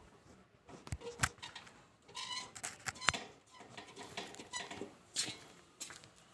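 Quiet scattered clicks and knocks, a handful of sharp ones spread over several seconds.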